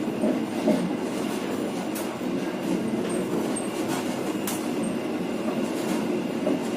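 Passenger train running along the track, heard on board: a steady rail rumble with occasional sharp clicks from the wheels, the loudest about two-thirds of the way through.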